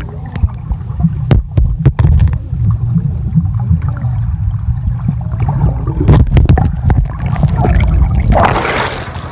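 Muffled sloshing and splashing of water close against a phone's microphone, a heavy low rumble broken by knocks and bumps.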